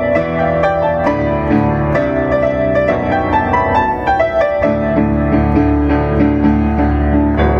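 Instrumental cover of a J-pop song on piano and saxophone: piano chords under a held, singing melody line, with the accompaniment settling into a steady low note about halfway through.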